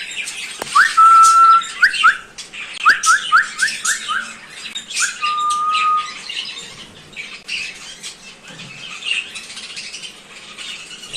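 A flock of aviary birds calling, with cockatiels whistling: one loud held whistle, then a quick run of five or six rising whistled notes, then another held whistle. Many small birds chirp and squawk steadily and shrilly underneath.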